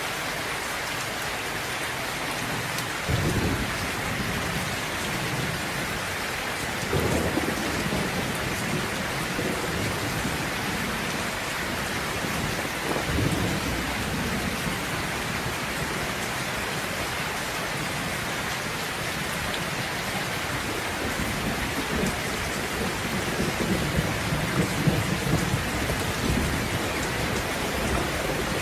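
Steady rain with low rolls of thunder: separate rumbles about 3, 7 and 13 seconds in, and more rumbling building near the end.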